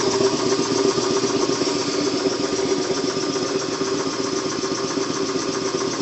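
Kellogg 325TV piston air compressor running steadily, with an even rapid pulsing over a constant hum.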